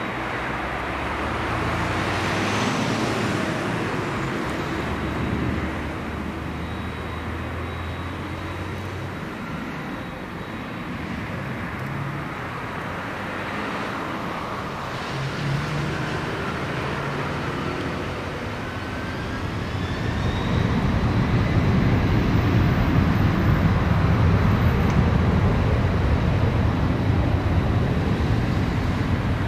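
Jet engines of a Boeing 767-300ER airliner. A steady rush of noise swells about two-thirds of the way through into a louder, deeper rumble, with a faint rising whine above it.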